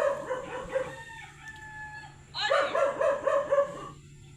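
Dog barking in two quick runs of short, repeated barks, about six a second, one at the start and one from about two seconds in.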